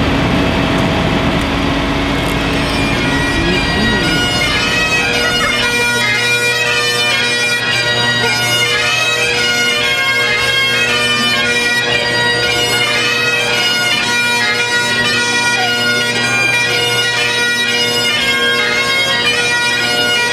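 Bagpipe music: a chanter melody played over steady held drones.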